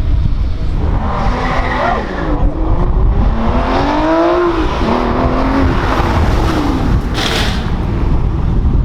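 A sports car accelerating hard. The engine note climbs, drops at an upshift about halfway through, then climbs again, over a steady low rumble. A short hiss comes about seven seconds in.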